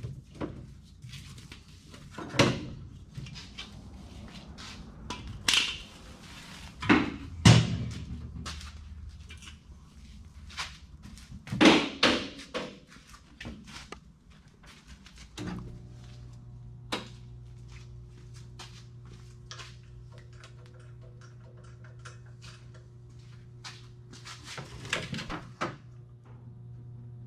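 Knocks and clunks of metal gear being handled and set down while a welder is fetched and set up. About halfway through, a steady machine hum starts and keeps going, with a few more knocks near the end.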